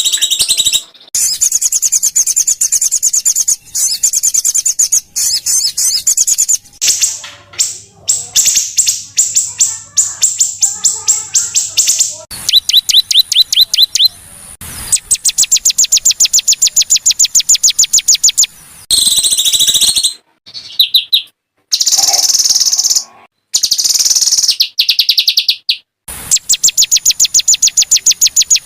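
Small songbirds singing in rapid, harsh, high-pitched rattling trills and fast repeated 'shooting' notes, a masteran recording for training cage birds. The song breaks off abruptly several times and restarts, as separate recordings are cut together.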